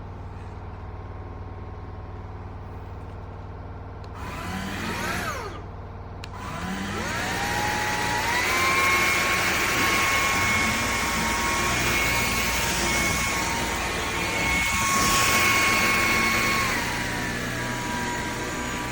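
Eureka cordless stick vacuum's motor spinning up: a whine that rises over about two seconds to a steady pitch and runs, then drops to a lower pitch near the end. A short rise-and-fall of the motor comes about four seconds in.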